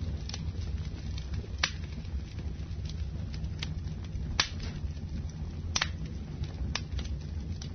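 Wood fire in a fireplace burning with a steady low rumble and crackling, with a few sharp pops of the wood, the loudest about a second and a half, four and a half and nearly six seconds in.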